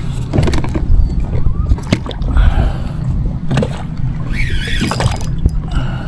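Water sloshing and gurgling against a fishing kayak's hull, over a steady low rumble, with a brief wavering squeak about two-thirds of the way through.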